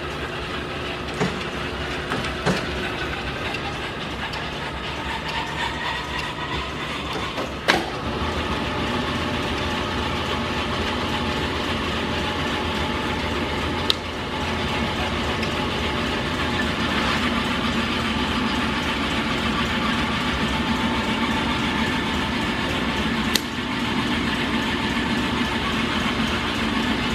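Hardinge lathe running under power, a steady mechanical whir with several whining tones from its drive and spindle, the whine climbing in pitch during the first several seconds. A few sharp clicks, the loudest about eight seconds in.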